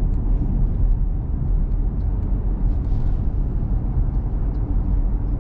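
Steady low road and engine rumble of a small truck driving along, heard from inside the cab.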